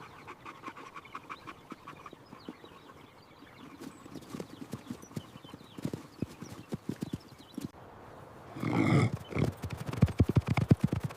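Horse hooves clip-clopping, faint at first and getting louder, with a short call from a horse just before nine seconds in. The hoofbeats are loudest near the end.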